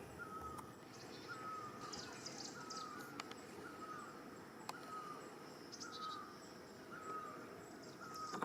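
Outdoor ambience: a bird repeating one short chirping note about every three-quarters of a second, with scattered higher chirps over a steady low background hiss.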